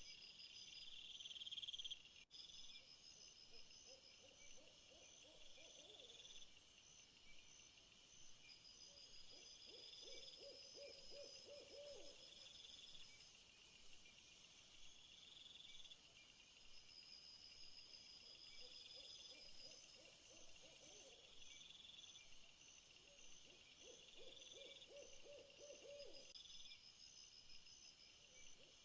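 Faint night-time nature ambience: a chorus of insects chirping and trilling in high, pulsing rows. Under it, a low trilling call recurs for a second or two at a time, every few seconds.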